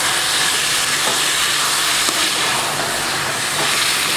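Chicken and curd sizzling in hot oil in a metal kadai with a steady hiss while a metal spoon stirs them, giving a few light scrapes against the pan.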